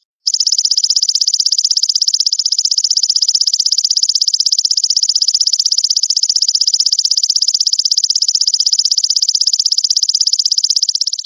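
Belalang mas grasshopper stridulating: a loud, high, continuous buzz made of fast, evenly spaced pulses. It breaks off for a moment just after the start and again near the end.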